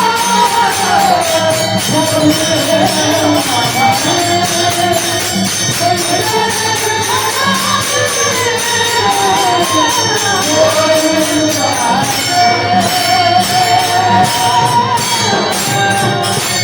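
Varkari devotional kirtan music: a voice sings a melody that bends up and down over a steady low drone, while jingling hand percussion keeps an even beat.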